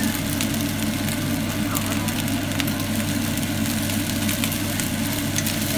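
Fried rice sizzling and being stirred in a nonstick frying pan, with light scattered clicks from the utensil, over a steady low machine hum.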